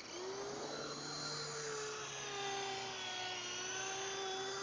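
Electric motor and rotors of an Ozone Elite 3.5-channel toy RC helicopter spinning up into a steady high whine. The pitch rises over the first second, then slowly eases down as it flies.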